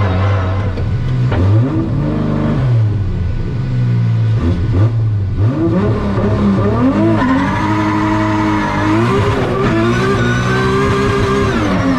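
Toyota GR Supra drift car's engine being driven hard, its pitch rising and falling over and over as it is revved and shifted. A long held high note near the end then drops away.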